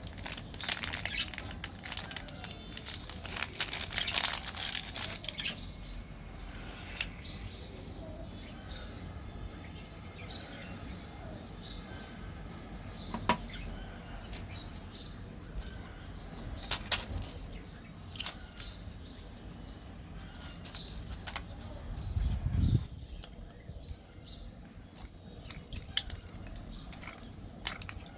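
Candy packaging being handled and opened: plastic wrappers crinkling and tearing, with scattered sharp clicks and rustles, densest in the first few seconds, and a dull thump a little after twenty seconds in.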